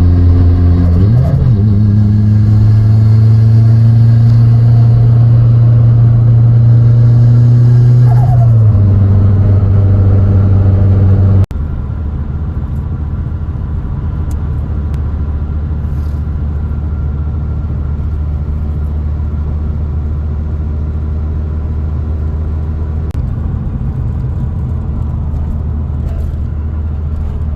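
Modified Hyundai Getz engine pulling under load on a hill climb. The revs rise about a second in, hold steady, then drop about eight seconds in. It then changes abruptly to a quieter, steady engine drone.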